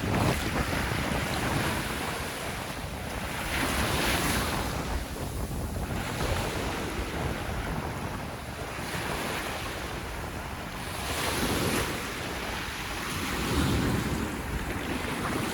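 Sea waves breaking and washing up a sandy beach, swelling and easing every few seconds, with wind buffeting the microphone.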